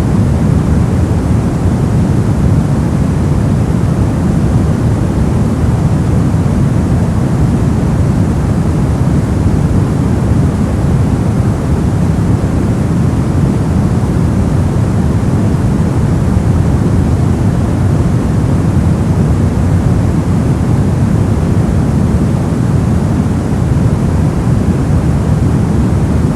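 Steady, unchanging ambient noise sold as white noise for sleep, weighted toward the low end so it sounds like a deep, even hiss.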